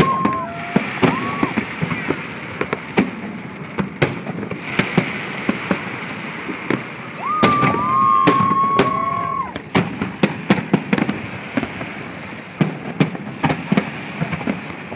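Fireworks display: aerial shells bursting in quick, irregular bangs and crackles, growing denser near the end. A high, steady whistle sounds for about two seconds midway.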